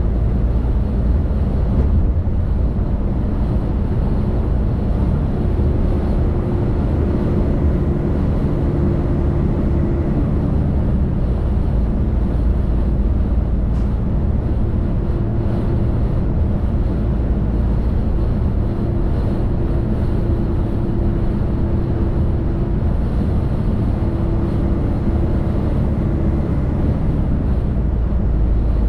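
Delivery truck driving: a steady low rumble of engine and road noise, with a faint hum that comes and goes.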